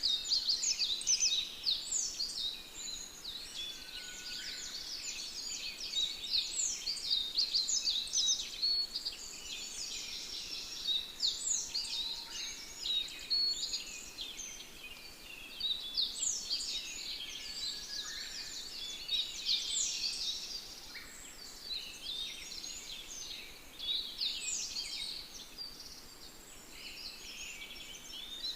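Many songbirds chirping and singing at once, a dense chorus of quick high chirps that swells and eases every few seconds.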